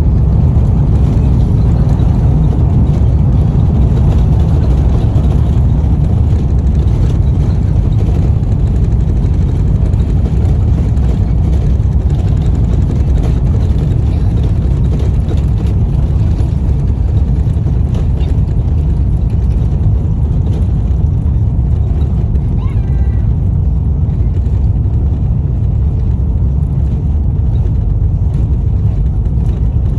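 Steady low rumble of an Airbus A350 heard from inside the passenger cabin during landing: engine and airflow noise, easing slightly toward the end.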